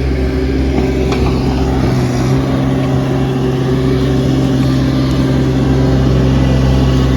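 A vehicle engine running at a steady speed, with a constant hum.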